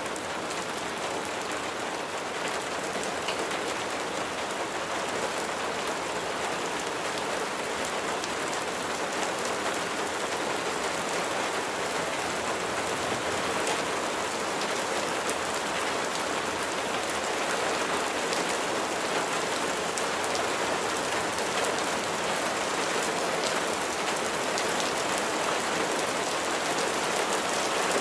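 Steady rain falling, an even hiss with scattered drop ticks, growing slightly louder through the stretch.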